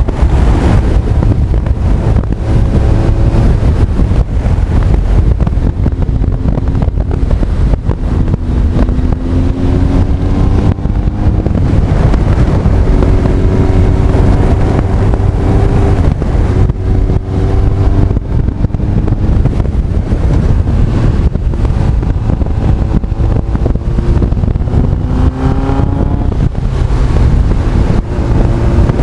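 Honda CB1300 Super Bol d'Or's inline-four engine running at road speed under heavy wind buffeting on the microphone. Its pitch climbs several times as the bike accelerates, and drops back with each gear change or easing of the throttle.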